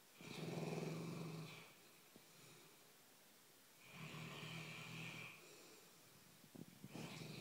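A dog snoring in its sleep: two long, buzzy snoring breaths about three and a half seconds apart.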